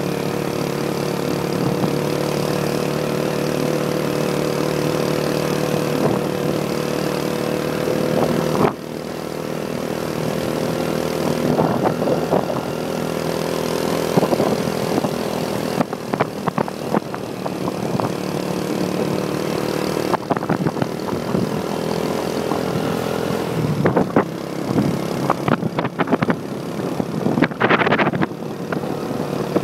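Motorbike engine running on the move, a steady engine note that breaks off suddenly about nine seconds in and gives way to uneven rushing noise and knocks.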